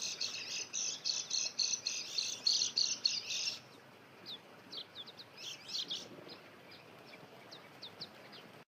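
White-eyes (pleci) calling: a dense, fast run of high twittering chirps stops abruptly about three and a half seconds in. Scattered short, high chirps follow, and then the sound cuts off suddenly near the end.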